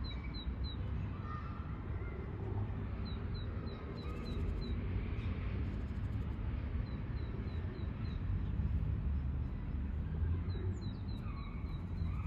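A small songbird singing in short runs of quick, high, downslurred whistled notes, about four or five a second, the run repeating every three to four seconds. Under it a steady low rumble of wind or distant traffic.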